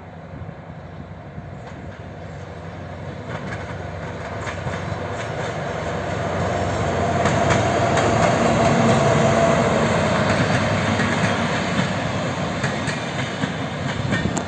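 SU4220 diesel locomotive hauling a passenger train past, growing steadily louder to a peak as the locomotive goes by about eight seconds in. The coaches follow with their wheels clicking rhythmically over the rail joints.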